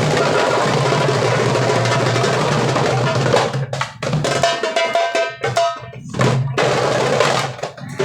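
Several darbukas played together in a fast, continuous roll, which breaks off about three seconds in into a few separate strokes with short gaps between them.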